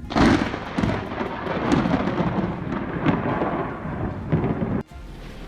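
Close thunder: a sudden loud crack just after the start, then a long crackling rumble over rain, cut off abruptly near the end.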